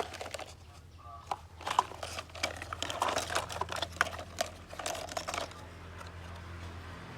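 Irregular light clicks, taps and rustling from objects being handled, over a faint steady low hum; the clicking thins out after about five and a half seconds.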